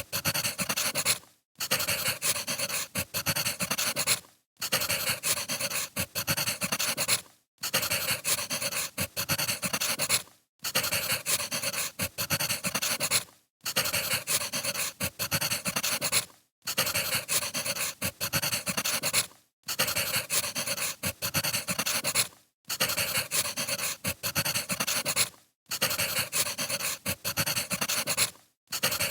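Crackling firewood fire, a dense run of small pops and snaps. It comes in even blocks of about three seconds, each cut off by a short moment of silence, so a short recording is being looped over and over.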